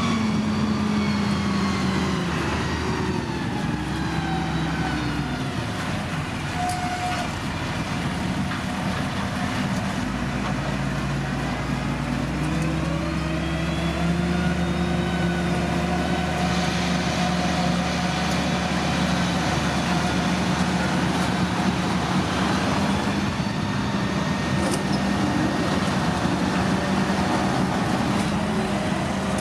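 Diesel engine of heavy road-construction machinery running, its pitch dropping and rising a few times in the first half, then holding steady.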